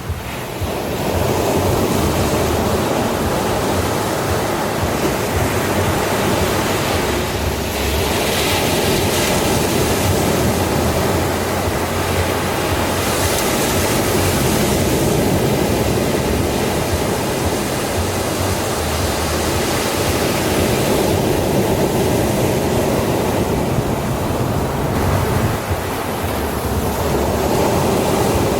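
Ocean surf breaking and washing onto a sandy shore: a continuous rush of waves that swells higher twice, about a third of the way in and again near the middle.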